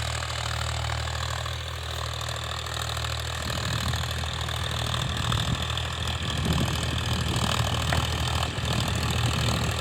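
Powertrac Euro 50 tractor's diesel engine running steadily. About three and a half seconds in, it turns rougher and a little louder.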